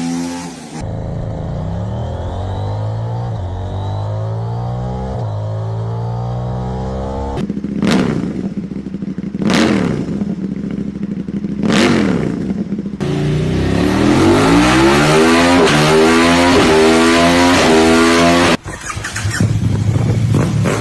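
KTM Duke motorcycle engine running and being revved. Three quick throttle blips, then a long stretch held at high revs that stops suddenly, followed by more revving.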